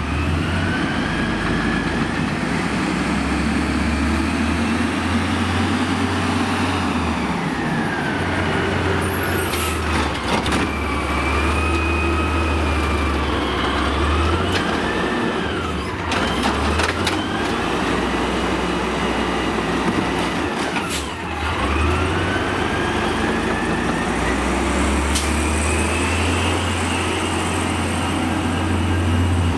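Amrep automated side-loader garbage truck at work: the diesel engine revs up and down while a whine rises and falls in long sweeps as the hydraulics run, with several sharp knocks in the middle.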